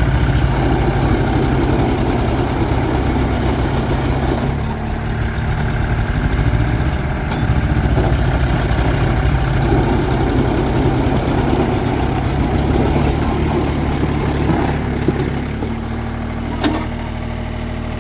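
Diesel engines of two mini tractors, a Mahindra Jivo 365 and a Swaraj 724, running under load as they pull against each other in a tug-of-war. The engine note shifts about four and a half seconds in and again near the end, and there is one sharp click near the end.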